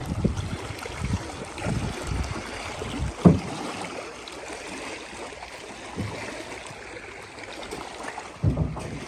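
A boat pounding through choppy waves, with water slapping and thudding against the hull under steady wind and water noise. There is a hard thud about three seconds in and another near the end.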